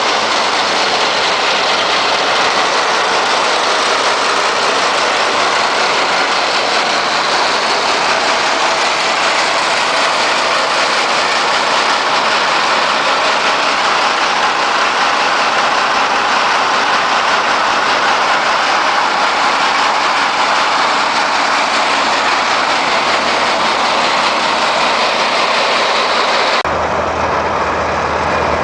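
Homemade PTO-driven snowblower, built from a Gehl blower, running on an Oliver 1850 tractor with a Perkins 354 diesel: a loud, steady rushing whir of the spinning blower over the engine. Near the end the rush drops off suddenly, leaving the diesel's low idle.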